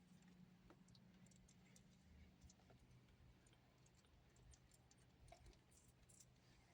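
Near silence: a faint steady low hum with scattered soft clicks.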